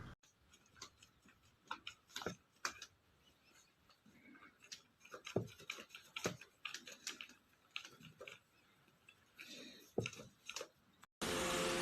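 Irregular soft clicks and small taps, several a second at times. About 11 seconds in, a steady hum with a few held tones cuts in abruptly.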